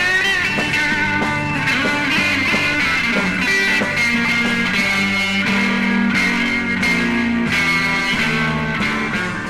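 Instrumental break in a psychedelic rock song: an electric guitar plays long, bending lead notes over the band, with no vocals.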